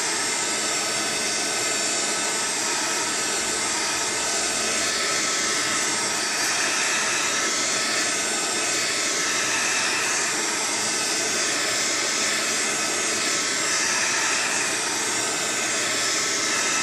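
Heat gun on its low setting blowing steadily, a continuous even rush of air with a faint fan whine.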